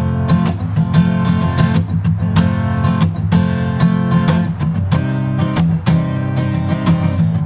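Solo acoustic guitar strumming chords in a steady rhythm, with no singing.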